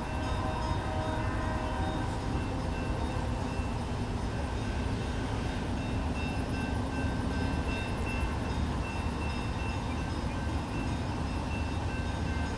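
Stainless-steel Nebraska Zephyr passenger train rolling slowly along the track: a steady rumble of wheels on rail.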